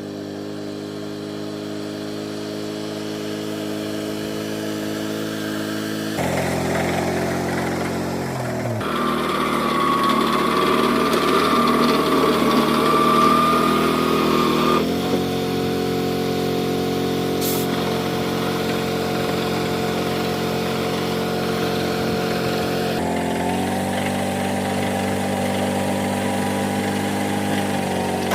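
A small engine running steadily, its pitch shifting abruptly several times, with a high whine in the middle stretch.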